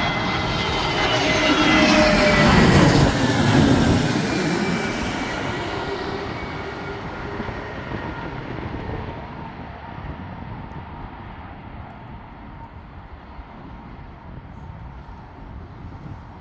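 Airliner's jet engines passing low overhead on landing approach. The rush peaks about three seconds in, with a whine that slides down in pitch as the plane goes by, then fades to a long low rumble.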